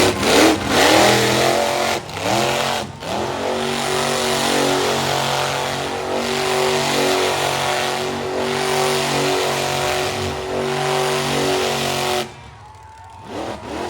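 Monster truck engine revving hard, its pitch rising and falling over the first few seconds, then running at steady high revs for several seconds before the sound drops away suddenly near the end.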